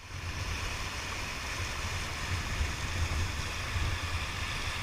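Steady rushing of river water, with a low wavering rumble underneath.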